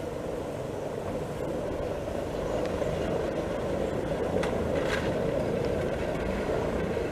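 Electric rack-railway train running past with a steady rumble that grows a little louder midway, with a couple of brief clicks about four and a half and five seconds in.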